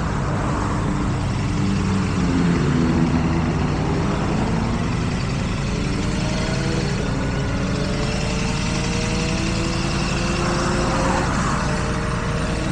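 KTM Duke 790's parallel-twin engine through an Arrow full exhaust, pulling under steady throttle with its pitch climbing slowly over several seconds, over a constant rush of riding wind.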